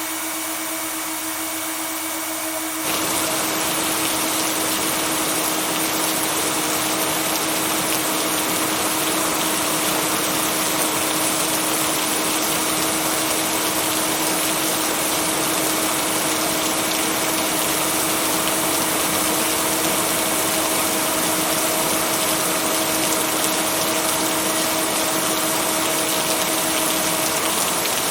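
Steady heavy rain hiss with a constant hum tone mixed in, the blended binaural-beat track. The rain fills out and gets louder about three seconds in, then holds even.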